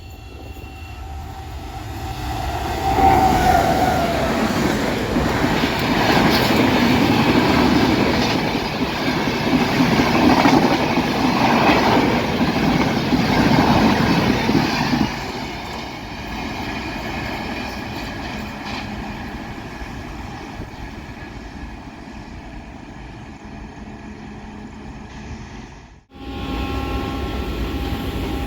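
Indian Railways express train passing at speed, with wheel and track noise that builds over the first few seconds and is loudest for about twelve seconds. About fifteen seconds in the noise drops suddenly to a steadier, quieter running sound. About 26 seconds in it breaks off abruptly and another stretch of train noise begins.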